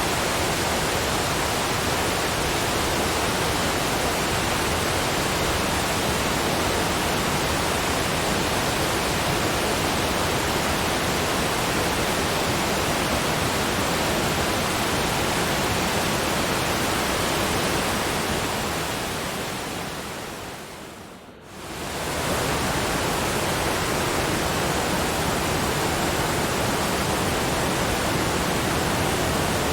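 A steady, even rushing noise with no separate events, like falling water or pink noise. Two-thirds of the way through it fades down over a few seconds to a brief dip, then swells quickly back to full.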